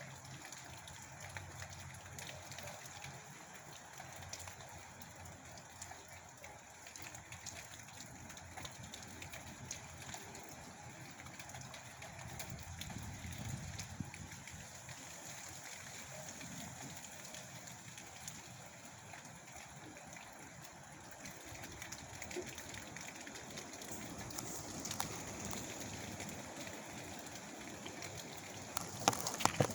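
Steady outdoor weather noise of wind and rain, with scattered small ticks. Low gusts swell now and then, about twelve seconds in and again near twenty-five seconds.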